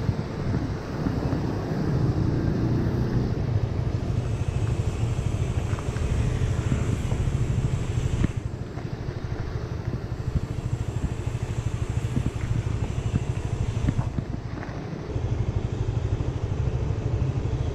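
Honda Winner 150 motorbike's single-cylinder engine running while being ridden, a steady low rumble that dips briefly about eight seconds in and again around fourteen to fifteen seconds.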